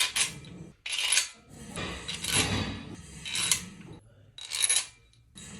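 Loose metal engine parts and tools clinking and rattling against each other as they are handled, in short irregular clusters about once a second with a bright metallic ring.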